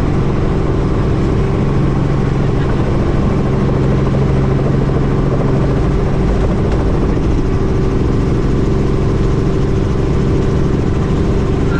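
Helicopter engine and rotor running steadily, a loud even drone with a low steady hum.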